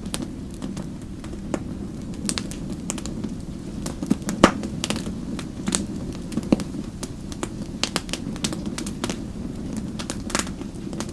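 Wood fire crackling, with irregular sharp pops over a steady low rush of burning. The loudest pop comes about four and a half seconds in.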